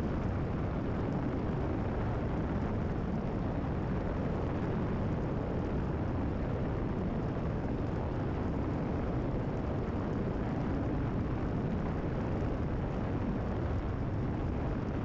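Steady drone of a Cessna 172RG's engine and propeller at climb power, heard inside the cockpit.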